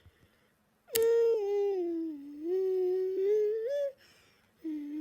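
A voice humming a long, wavering, whiny note that starts about a second in, sags in pitch and climbs back before stopping. A second hummed note begins near the end.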